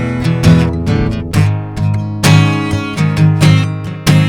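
Acoustic guitar strumming chords in a steady rhythm, several strokes a second.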